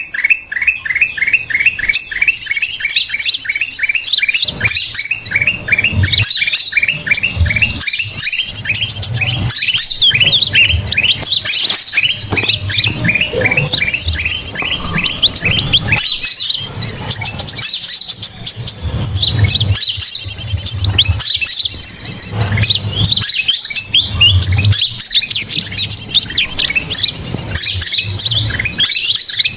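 Bird-lure recording of a noisy, agitated bird chorus mixed with kutilang mas bulbul calls. It opens with a fast run of repeated chirps, about ten a second, then turns into dense, overlapping high chirping and trilling.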